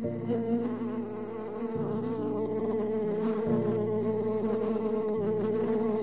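Honeybee colony buzzing in an open hive: a steady, many-voiced hum of bees on the comb frames.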